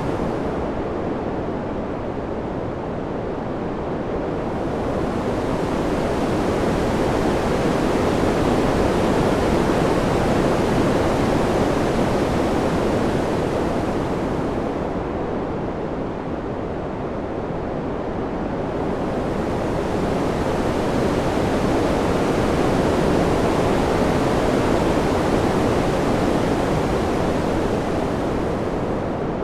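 Wind sound: a steady rushing hiss that slowly swells and eases, rising to two peaks, its high hiss thinning out in the lulls between them.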